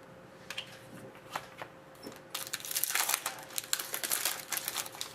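Trading-card pack packaging crinkling and rustling while cards are handled: a few light clicks, then a dense crackly run of crinkling for about two seconds midway through.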